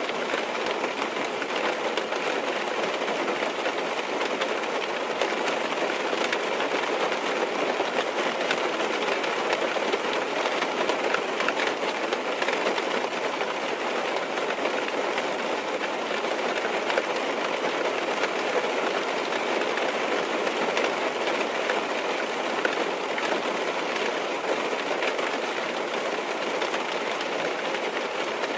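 Steady rain on a car's roof and windows, heard from inside the cabin: a dense, even patter with many small drop ticks.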